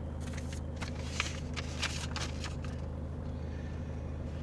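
Steady low hum inside a parked car's cabin, with a few faint rustles of clothing or movement in the first two seconds.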